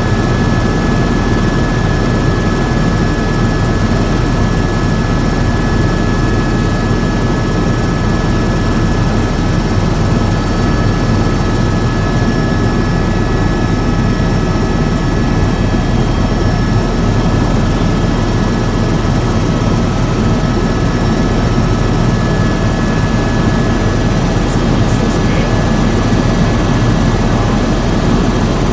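Helicopter running steadily: an unchanging rotor and engine noise with a constant high whine over a low hum.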